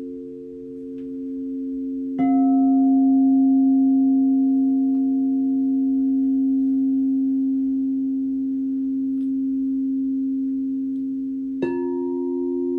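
Singing bowls ringing in long, steady overlapping tones, one bowl struck afresh about two seconds in and another near the end, each strike ringing on for many seconds.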